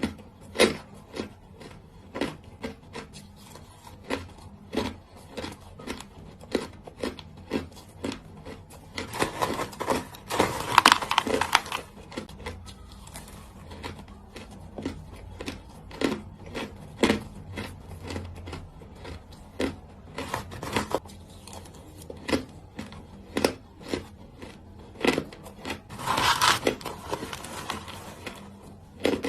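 Small hard ice cubes being bitten and chewed close to the microphone: sharp crunches about once a second, with two longer runs of dense crunching, the louder one about ten seconds in and another near the end.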